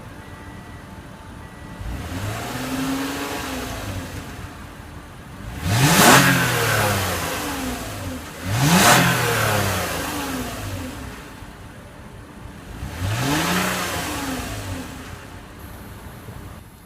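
2014 Toyota Camry XLE's 3.5-litre V6 idling and revved four times, each rev falling back to idle. The first rev comes about two seconds in, two sharp, loudest blips follow around six and nine seconds, and a last softer one comes near the end.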